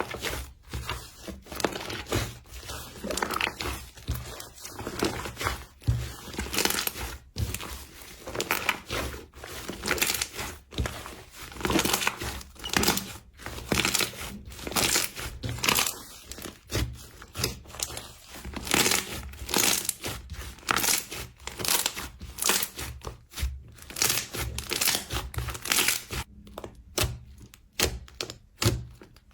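Slime being squeezed and pressed by hand, giving dense, irregular crackles and crunches several times a second, with a quieter stretch near the end.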